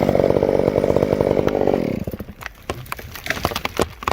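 Chainsaw running at full throttle through wood, dropping off about halfway through, followed by scattered sharp snaps and clicks.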